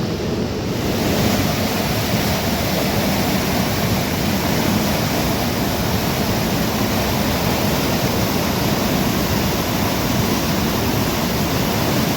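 Heavy rain falling steadily, a dense even hiss that grows a little louder and brighter about a second in.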